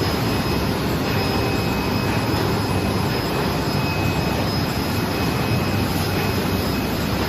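Shrimp washing machine running: a steady, even machine noise with a faint high whine over it.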